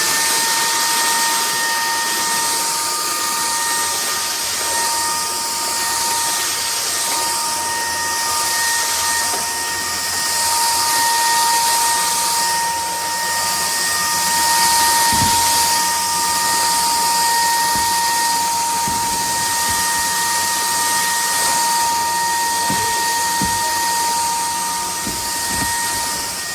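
Bulelink cordless stick vacuum running: a steady high motor whine over an airflow hiss that swells and fades every second or two, with a few light knocks in the second half.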